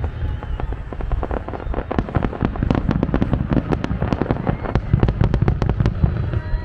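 Fireworks exploding in quick succession: many sharp bangs and crackles each second over a continuous low rumble.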